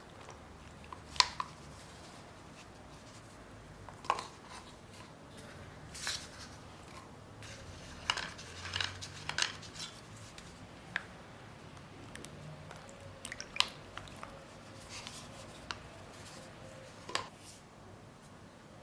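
Soft gym chalk and cornstarch paste being handled and crumbled, giving scattered soft crackles and clicks with a denser run of crumbling about halfway through.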